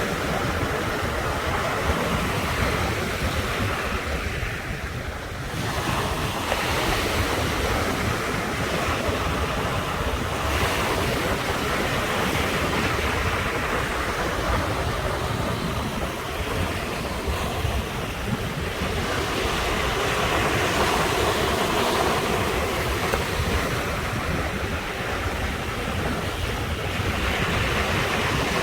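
Ocean surf breaking and washing ashore in a continuous rush, swelling and easing every several seconds, with a brief lull about five seconds in.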